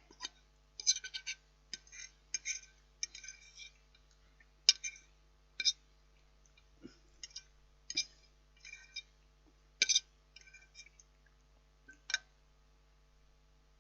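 Cutlery scraping and clinking against a microwave meal tray, in short irregular strokes, a few seconds apart at most.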